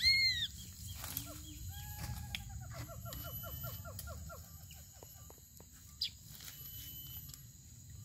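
Wild forest birds calling: a loud, short arched call right at the start, then a rapid run of repeated notes from about two seconds in, over a thin steady high whine.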